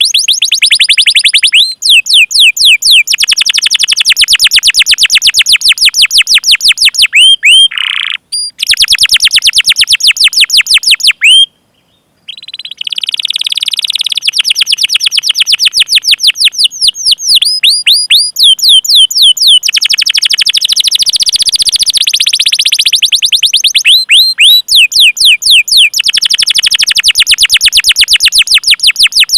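Domestic canary singing long rolling trills ('ngerol'): rapid chirps repeated about eight times a second, each a quick downward sweep, in long runs broken briefly about eight and twelve seconds in.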